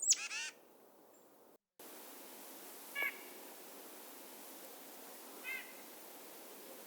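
Short bird calls: a high call sliding downward right at the start, then two brief calls about two and a half seconds apart, over a steady outdoor hiss.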